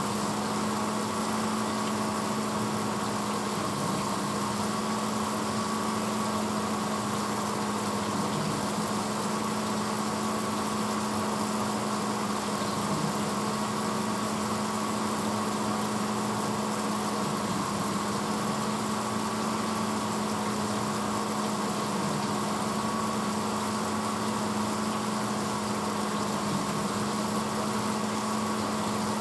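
1986 Hotpoint Potwasher dishwasher running mid-cycle: a steady motor hum over an even hiss, unchanging throughout.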